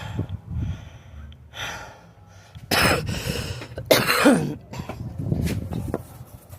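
A person coughing in several short bursts, with throat clearing.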